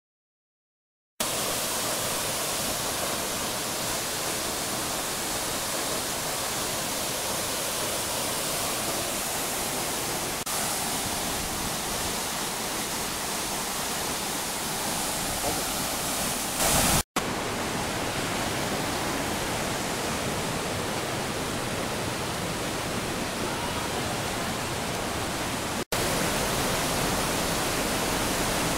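Waterfall rushing, a steady, loud wash of noise across all pitches. It starts abruptly about a second in and drops out briefly twice, about two-thirds of the way through and near the end.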